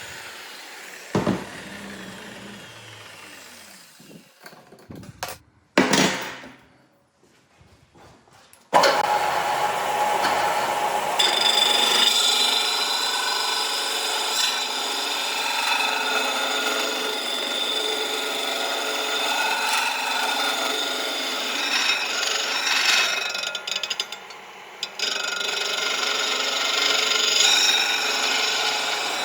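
Power grinder grinding a forged steel knife blade: a steady, rough grinding with a high whine that starts suddenly about nine seconds in. It follows a quieter stretch with a couple of sharp knocks.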